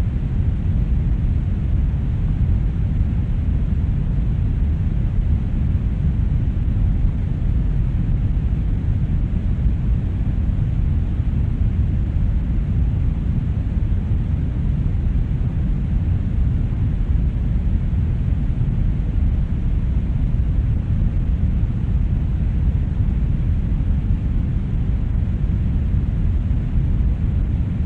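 Brown noise: a steady, deep rushing noise, mostly bass, with the highs much softer, unchanging and without any tones or events.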